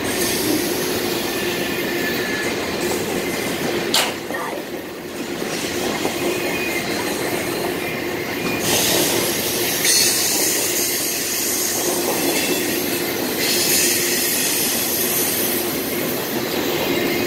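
Double-stack intermodal container train rolling past: the steady rumble and clatter of freight car wheels on the rails, with a sharp click about four seconds in.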